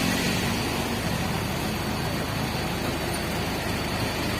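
Heavy truck's diesel engine idling steadily with an even low pulse, running again after its battery was replaced.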